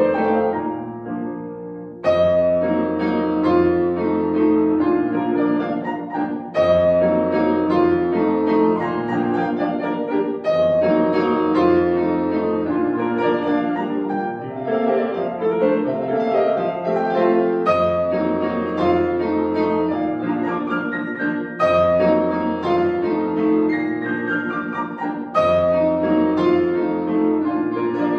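Solo piano playing a classical piece: sustained chords and melody over low bass notes that change every few seconds. A phrase fades, then a new one is struck about two seconds in.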